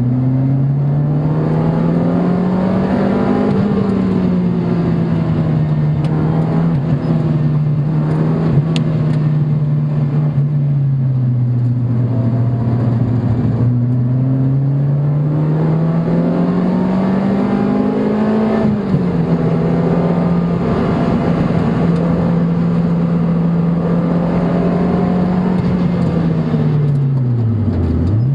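Car engine heard on board during a fast lap. The revs climb under acceleration, hold steady for long stretches, fall off and climb again, then dip sharply and recover near the end. A steady rush of wind and tyre noise runs underneath.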